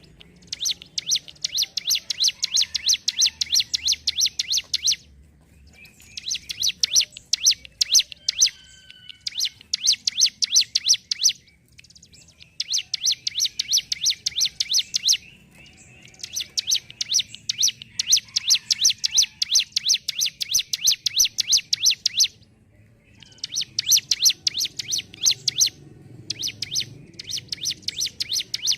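Ciblek gunung singing a fast, rattling song: long phrases of rapidly repeated high notes, each several seconds long, broken by short pauses.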